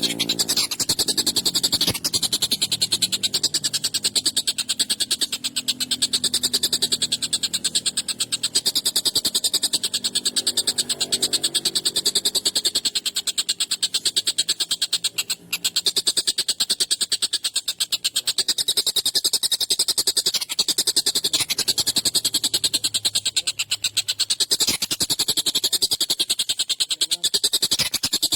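Tengkek buto kingfisher calling nonstop in a harsh, rapid, rasping rattle, briefly broken about halfway through.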